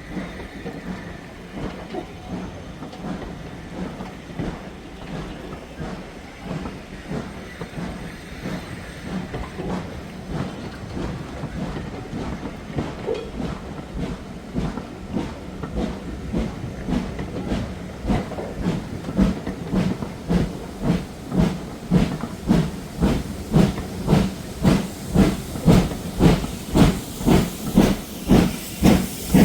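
A steam locomotive working a train with a regular chuffing exhaust beat and steam hiss, growing steadily louder as it approaches; the beats are strongest near the end.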